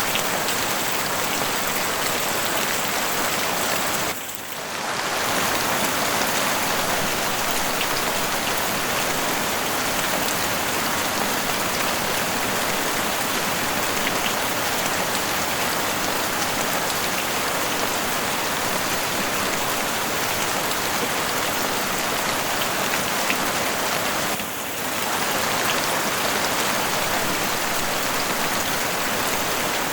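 Heavy rain falling steadily on a house roof as a dense, even hiss of drops, briefly dipping in level twice, about four seconds in and near the end.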